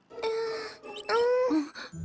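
A cartoon character's voice making two drawn-out whining sounds without words, the second rising in pitch at its end.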